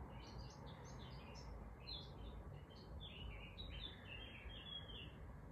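Faint birdsong: a songbird sings a quick series of short chirping notes that come closer together in the second half, over a low steady room hum.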